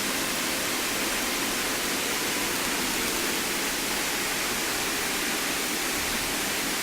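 Steady hiss of Cessna 152 cockpit noise heard through the aircraft intercom, with the engine throttled back on the landing approach.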